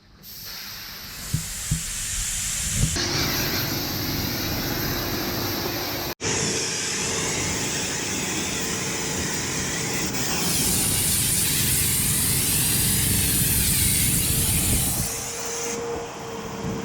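Pressure washer spraying, a steady loud hiss of high-pressure water with a short break about six seconds in.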